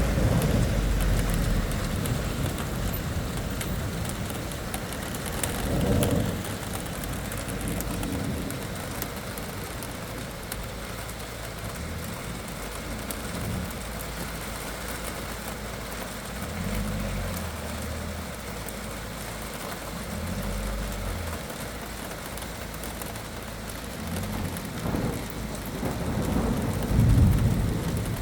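Thunderstorm: steady rain falling, with low rolls of thunder rumbling several times, the loudest near the end.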